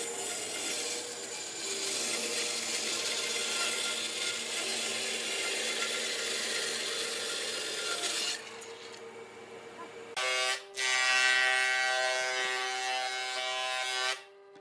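Rough scraping on wood, like sanding or rasping, for about eight seconds. After a short lull, a small electric power tool runs with a steady whine for about four seconds, then stops.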